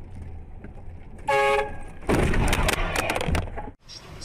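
Low vehicle rumble, then a short vehicle horn blast about a second in, followed by a loud crunching clatter with sharp cracks lasting about a second and a half, then a sudden cut.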